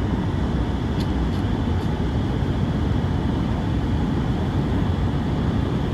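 Steady road and engine noise inside a moving car, a low rumble that holds even throughout.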